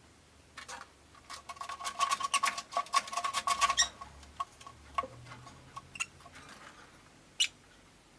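Rosy-faced lovebirds chattering in a fast run of short clicking chirps for a couple of seconds, then a few scattered single chirps.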